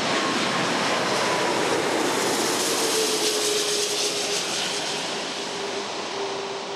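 Airbus A340-500 jet airliner passing by with its Rolls-Royce Trent 500 engines running: a loud roar with a whine that falls in pitch as it goes past, slowly fading toward the end.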